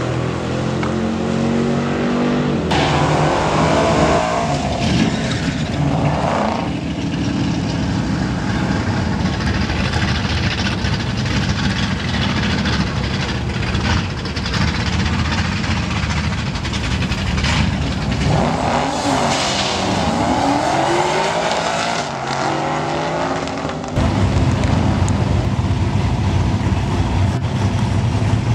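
Drag-racing street cars' engines revving hard as they launch and accelerate down the strip, with cars going past twice, their engine pitch falling as they pass. Near the end it switches abruptly to a steadier engine running at low revs.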